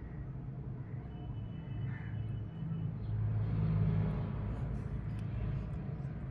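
A low steady rumble that swells for a second or so about three seconds in, with a faint thin high tone for about a second near the start.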